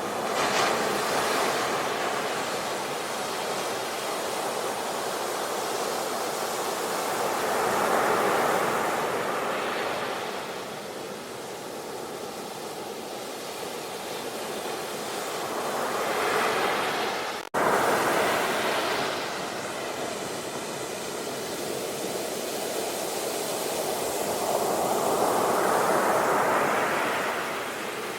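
Ocean waves breaking and washing in, the surf swelling and easing about four times, with one sudden momentary dropout about two-thirds of the way through.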